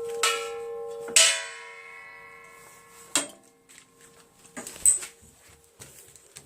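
Metal clanging: a few sharp strikes, the loudest about a second in, each followed by bell-like ringing that dies away over a second or two. Softer knocks follow near the end.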